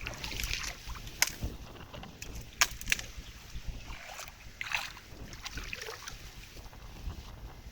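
Water sloshing and splashing, with a few sharp knocks in between.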